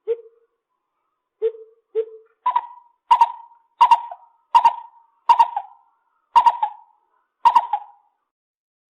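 Lesser coucal calling: three low hollow hoots, then a run of seven higher, louder hoots, about 0.7 s apart at first and slowing toward the end.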